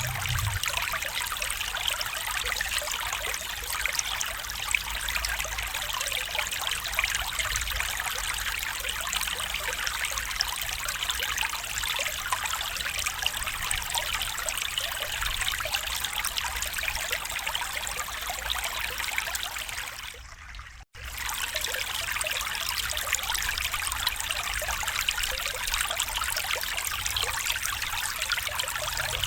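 A small stream trickling and babbling steadily. About twenty seconds in the sound fades almost to silence for about a second, then comes back at the same level.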